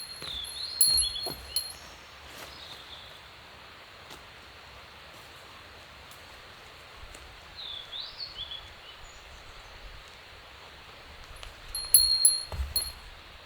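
Metal camping gear clinking, each clink ringing on briefly in a high tone, in a cluster about a second in and again near the end. A bird gives short chirps in between.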